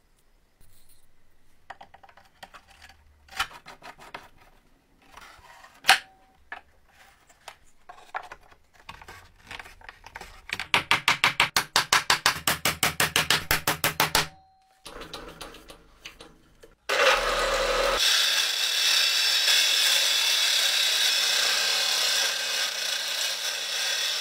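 Tools working wood. First scattered rubbing and knocks, then a run of fast even strokes, about six a second, like hand sanding or sawing. Then a power tool starts abruptly and runs steadily for several seconds.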